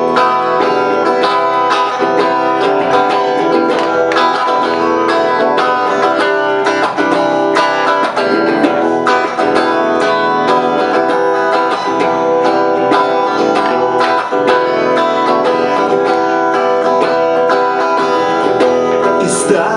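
Guitar playing an instrumental passage between sung verses, with a steady stream of picked or strummed notes.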